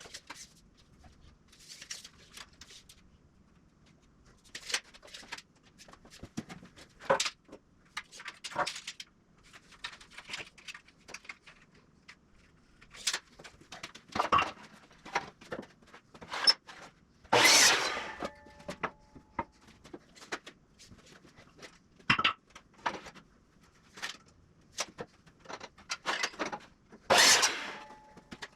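Irregular knocks, clicks and rattles of hand work with lumber and tools, with two louder noisy bursts about a second long, one past the middle and one near the end.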